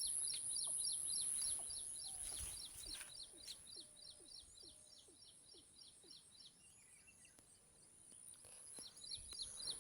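A small bird chirping over and over, about four short high chirps a second, fading in the middle and coming back near the end, over a steady high-pitched hiss.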